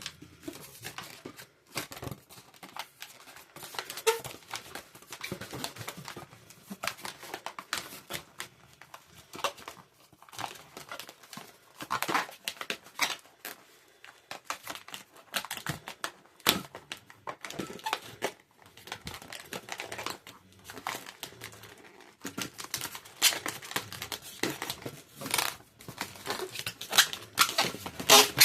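Latex twisting balloons handled and rubbed by hand: irregular squeaks, crinkles and short sharp clicks.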